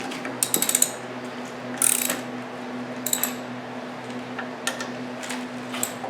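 Ratchet wrench clicking in short quick runs while loosening the clutch pressure plate bolts, over a steady low hum.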